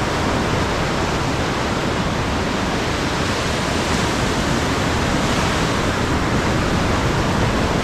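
Steady, even rushing of sea surf and wind, with no breaks or single events.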